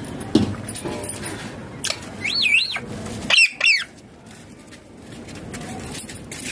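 Indian ringneck parakeet giving two short, shrill calls that waver up and down in pitch, about two seconds in and again a second later, after a thump near the start.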